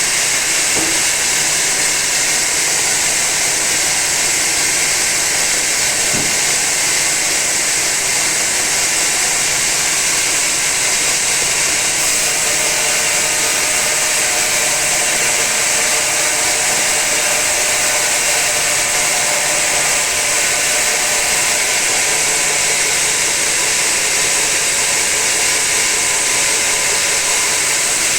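Sawmill saw running through an old teak log: a steady, loud, high-pitched hiss of the blade cutting wood, with no let-up.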